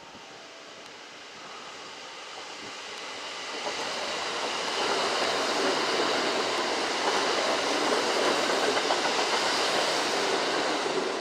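A Kintetsu electric train running through the station. Its rumble builds over the first few seconds, stays loud for several seconds, then falls away at the very end.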